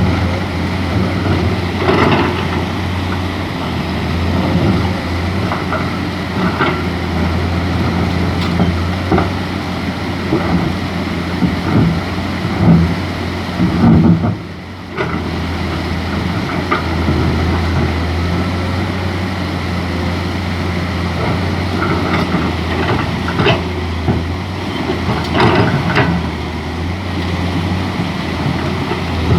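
Mining excavator's diesel engine running steadily under load, with occasional knocks and clanks. The sound drops away briefly about halfway through.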